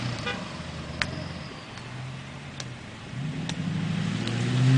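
Pickup truck engine running, dropping back to a low hum, then building again with a rising pitch near the end. A few sharp clicks sound in between.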